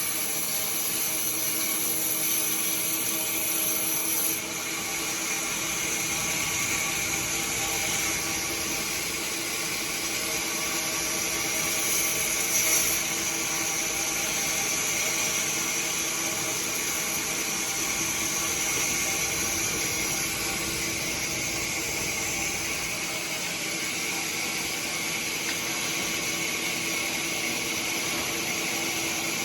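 Sawmill machinery running steadily: a continuous high hiss with a steady hum beneath, briefly louder about twelve seconds in.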